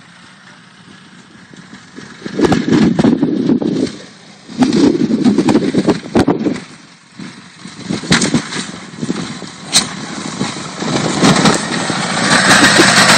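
Honda motorcycle engine revving in loud bursts, then running louder and steadier near the end.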